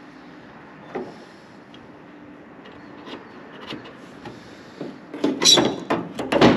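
Workshop handling noise: a few light knocks, then a burst of loud clanking and rattling near the end as metal pedal-assembly parts are handled and fitted together.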